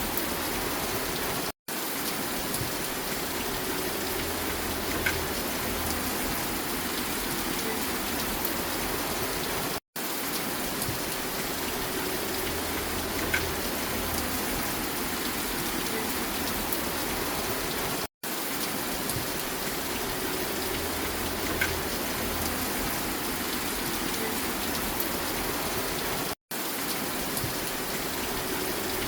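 Steady rain falling, an even hiss with a few faint drip ticks. The sound cuts out completely for a split second about every eight seconds, where a short rain recording loops.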